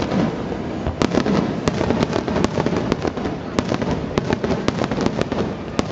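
Aerial fireworks going off: a dense, irregular run of sharp pops and crackles, several a second, over a steady low rumble.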